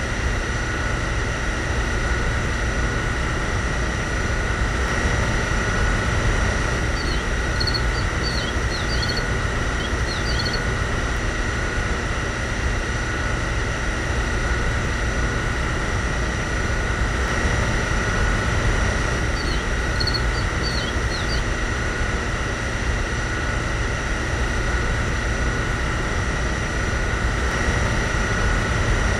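Small DC water-pump motor inside a miniature fuel dispenser running steadily, a constant whine over a low hum, as it pumps water out through the nozzle. A few short bird chirps come in twice, about a third of the way in and again about two-thirds in.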